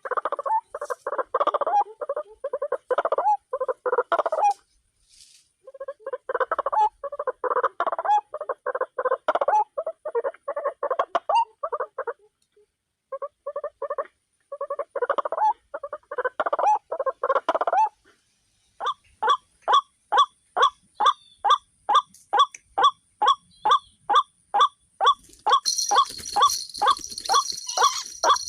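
White-breasted waterhen calls: three bouts of rapid, repeated croaking notes, then a steady series of short calls about two a second. A high hiss joins near the end.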